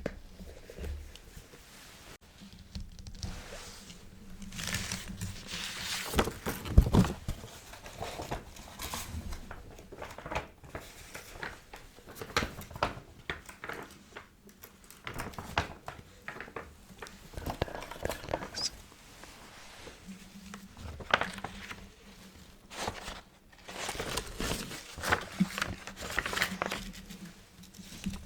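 A quill nib scratching across paper in irregular strokes of writing, with occasional small taps and clicks.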